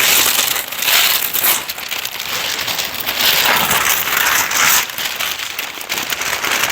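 Dry rubbing and rustling by hand on a painted car engine bay, in repeated strokes about a second apart, as the surface is wiped clean of dust.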